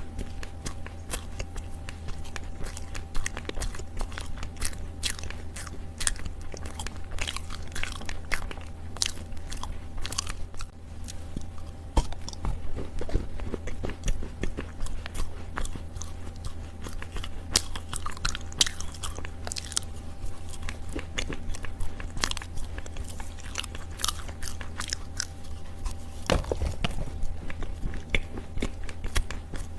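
A person biting and chewing pieces of dried Chinese loess, with many soft crunches in quick, irregular succession.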